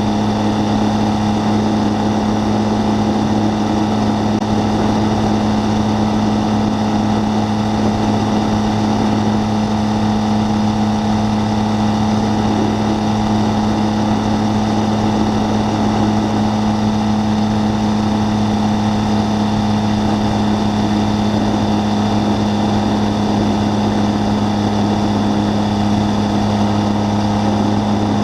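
Triumph Tiger 800 motorcycle's three-cylinder engine running at steady, unchanging revs.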